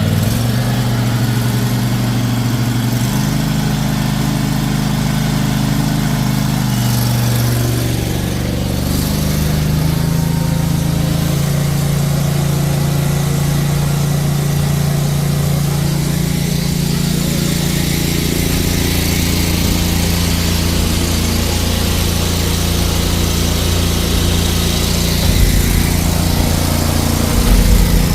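Loncin 40-horsepower gasoline engine driving a high-pressure washer pump, running steadily; its pitch shifts a few times in the first eight seconds, then holds steady.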